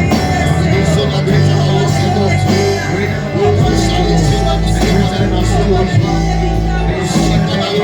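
Loud church worship music from a live band, with a strong bass line that moves every second or so.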